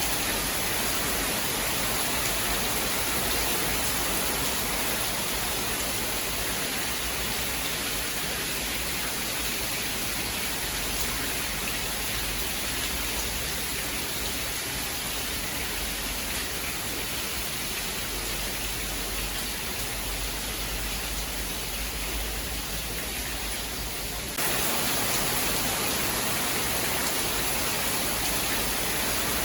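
Steady heavy rain, an even hiss with no distinct thunderclaps. About twenty-four seconds in it jumps suddenly louder and brighter.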